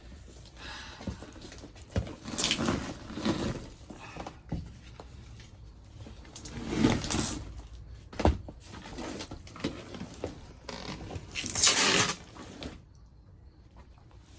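Old floor padding and carpet being pulled and torn up from a car's rusty floor pan: irregular bursts of rustling and tearing, with one sharp knock about eight seconds in.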